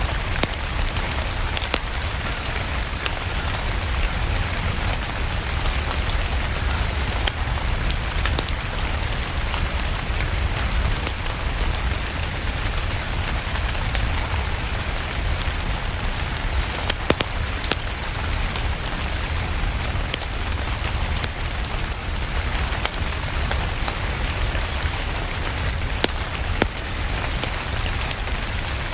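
Steady rain with a low rumble underneath and scattered sharp clicks and pops of a fireplace fire crackling.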